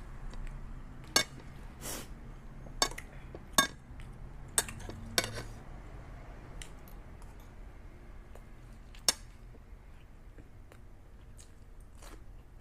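Cutlery clinking against a plate while eating: a string of sharp clinks in the first half, and one more about nine seconds in.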